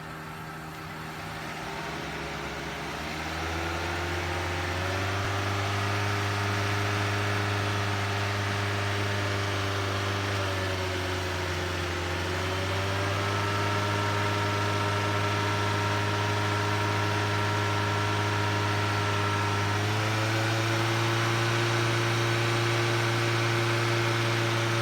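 Toyota Avanza petrol engine idling with freshly replaced connecting-rod and main bearings. It runs steadily, and the idle speed shifts slightly a few times: around three to four seconds in, near the middle, and about twenty seconds in.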